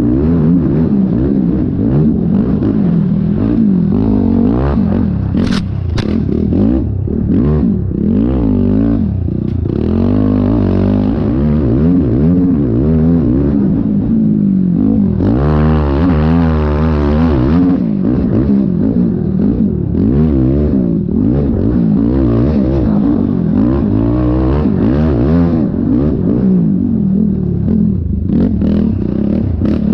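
Yamaha YFZ450R's single-cylinder four-stroke engine revving up and down continuously as the quad is ridden hard, with a few sharp knocks and clattering along the way.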